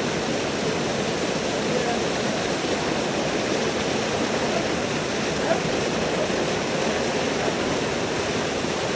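Water of a waterfall rushing steadily, an even roar of falling water that doesn't change.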